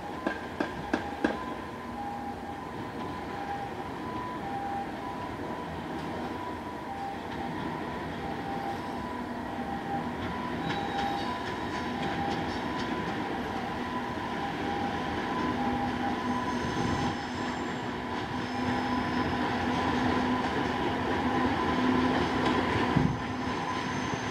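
A freight locomotive hauling new YC1-series railcars past, its wheels clicking over rail joints in the first second or so. After that comes a steady running rumble with a few held tones, growing slowly louder.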